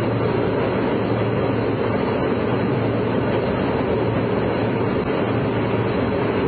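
Steady cabin noise of an airplane in flight: an even rush of engine and airflow noise with a constant low hum underneath.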